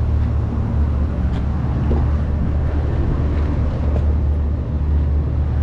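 A truck's engine and road noise make a steady low rumble as the truck runs.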